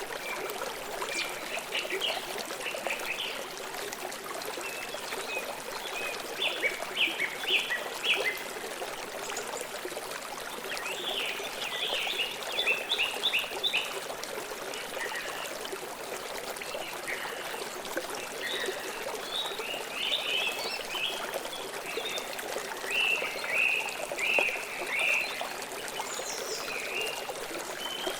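Stream water trickling and flowing steadily, with small birds chirping in quick runs of short notes every few seconds.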